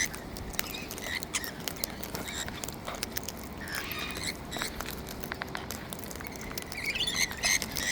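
Birds pecking at and cracking seed: an irregular patter of small sharp clicks, with a few short high squeaks, the clearest near the end.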